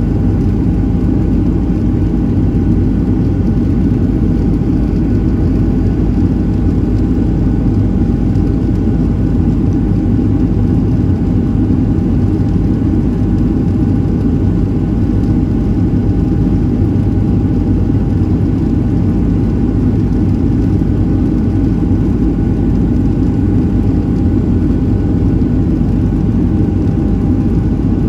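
Steady in-flight cabin noise of a Boeing 737-700: the drone of its CFM56-7B engines and the airflow over the fuselage, with a faint steady whine above it.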